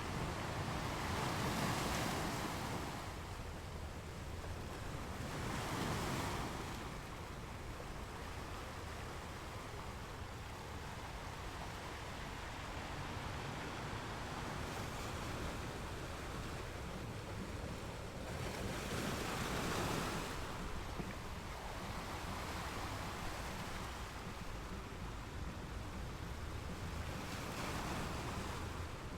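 Ocean waves breaking and washing onto a beach, steady surf noise that swells four times, about two, six, nineteen and twenty-eight seconds in.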